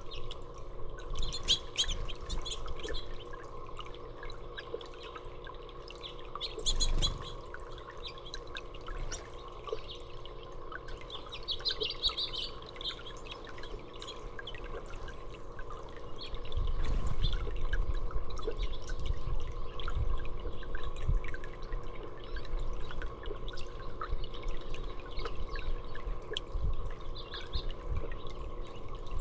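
Water trickling and dripping, likely a birdbath, under a steady hum, with small birds chirping a few times. A low rumble comes in about halfway through.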